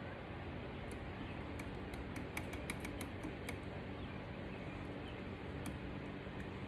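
Light clicks and ticks of small transmission parts being handled and fitted onto a Ford toploader four-speed main shaft, with a quick run of them about two to three and a half seconds in, over a steady low background hum.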